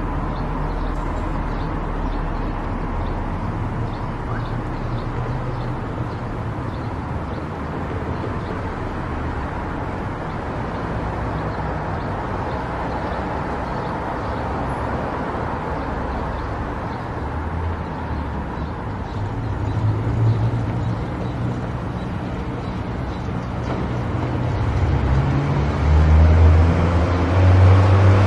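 Car driving along a road: steady engine hum and road noise, growing louder near the end.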